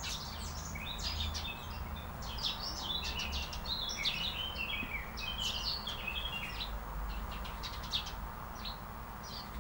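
Songbirds chirping and twittering: many quick high chirps and short trills, busiest in the middle and thinning out near the end, over a steady low hum.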